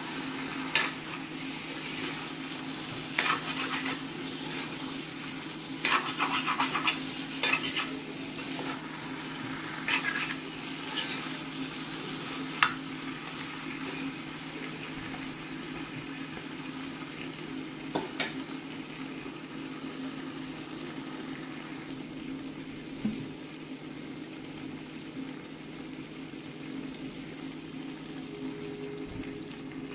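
Mutton and onion masala sizzling as it fries in a cast-iron kadai while a metal spatula stirs it, scraping and knocking against the pan. The stirring strokes come mostly in the first half, and the steady sizzle carries on after them.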